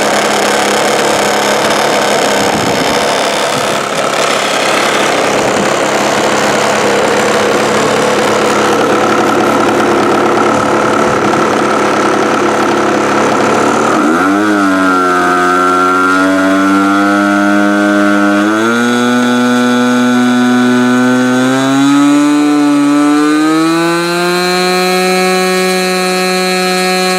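OS 46 AX two-stroke glow engine in a radio-control P-51 model, running under its cowl. It sounds ragged and uneven for about the first half, then settles into a clean, steady buzzing note that steps up in pitch twice as the throttle is opened further.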